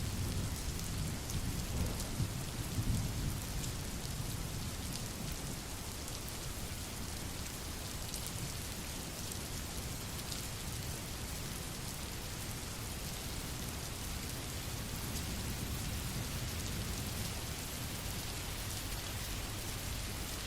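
Steady rain falling, with a low rumble of thunder that fades over the first few seconds.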